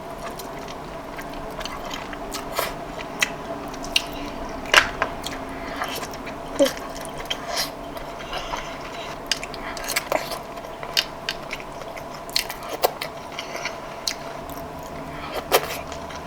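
Close-miked eating sounds of someone chewing and biting seafood: irregular wet clicks and mouth smacks, a few every second, over a faint steady hum.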